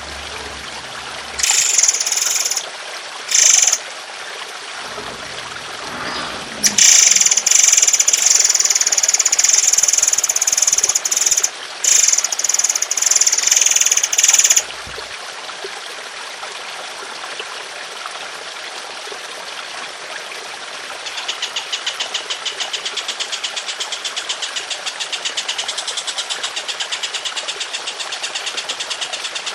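Songbird training recording over trickling water: loud bursts of high, shrill bird song in the first half, then a fast, evenly pulsed rattling trill from about two-thirds of the way in.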